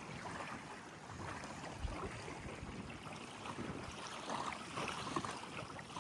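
Steady wash of wind and water lapping, with a faint low knock about two seconds in.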